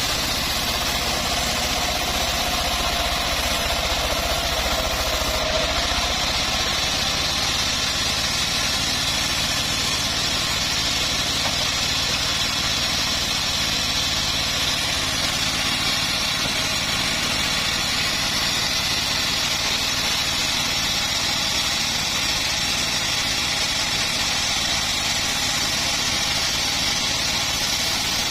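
Homemade band sawmill running with a steady, unbroken mechanical noise, its engine and blade at constant speed.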